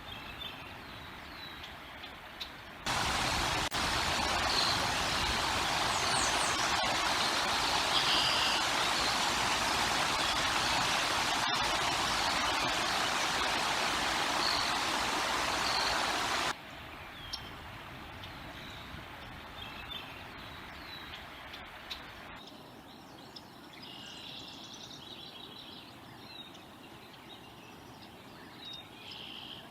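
Outdoor nest-camera ambience with faint, high bird chirps and peeps. About three seconds in, a loud, steady rushing noise like wind on the microphone starts abruptly, then cuts off just as suddenly around the middle, leaving the quieter chirping.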